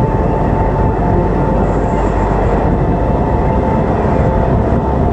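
Passenger train running on the track: a loud, steady rumble with a steady whine over it.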